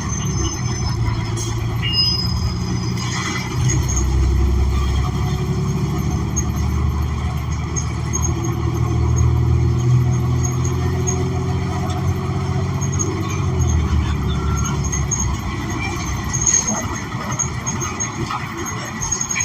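Cabin sound of a New Flyer XN40 transit bus with a Cummins Westport ISL G natural-gas engine and Allison B400R automatic transmission, pulling away with the engine note rising, then easing off about fourteen seconds in.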